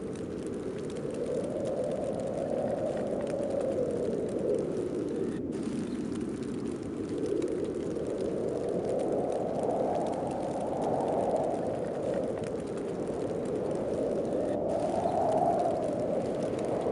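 Snowstorm wind blowing steadily, swelling and easing in slow gusts about every five seconds.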